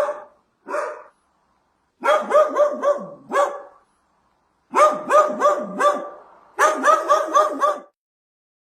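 A dog barking in fast runs of short, high yaps, about six a second, in four bursts with pauses between.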